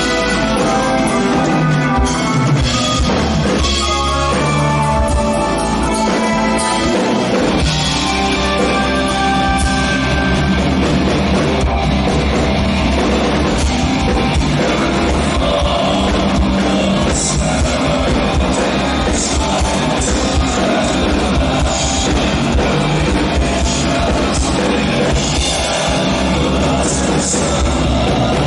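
A progressive metal band playing live: drum kit, bass and electric guitars, loud and continuous, with some singing.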